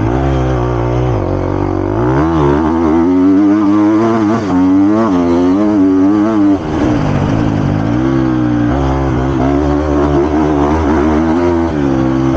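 Triumph TF250-X motocross bike's 250 cc four-stroke single-cylinder engine, heard from on the bike, revving up and down again and again as it accelerates and eases off through the laps. There is a brief sharp drop about six and a half seconds in, like the throttle being chopped.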